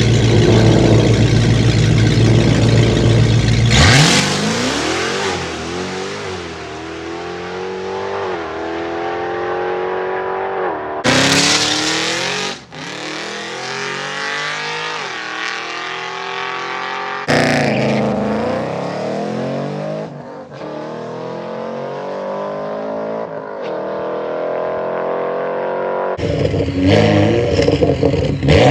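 Drag-racing car engine accelerating hard. Its pitch climbs and falls back several times as it shifts up through the gears, after a loud start about four seconds in.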